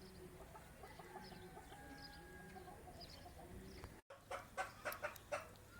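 Domestic chickens clucking faintly. After a brief dropout about four seconds in comes a quick run of sharp clicks, the loudest sounds here.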